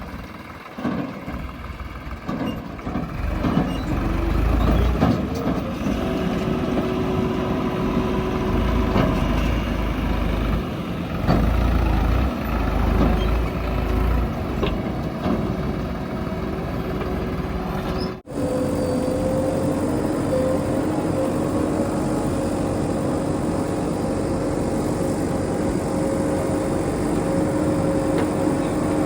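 Heavy diesel engines running at a loading site, with an uneven low rumble that rises and falls through the first part. A sudden break about two-thirds of the way in is followed by a steady engine drone.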